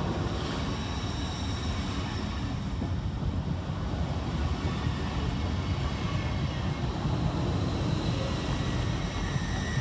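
LNER Class 801 Azuma electric train running past the platform: a steady rumble of wheels on the rails, with a faint high whine over it.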